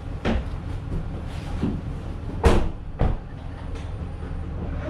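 A vehicle engine idling with a steady low hum, and four dull thumps over it; the loudest thump comes about halfway through.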